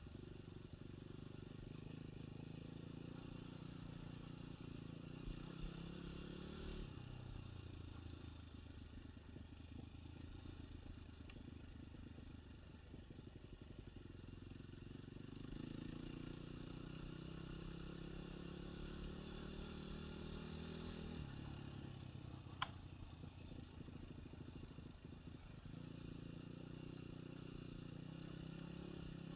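Enduro dirt bike engine pulling under load, its note climbing steadily and dropping back sharply twice as the throttle is eased or a gear is changed. A single sharp click stands out once, about three-quarters of the way through.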